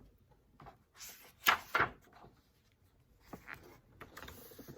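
A picture book's page being turned: a brief paper rustle twice in quick succession about a second and a half in, with fainter handling sounds of the book around it.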